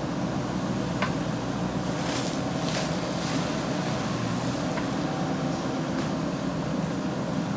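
Diesel engine of a JCB 3DX backhoe loader running steadily, with a brief hissing rush about two to three seconds in.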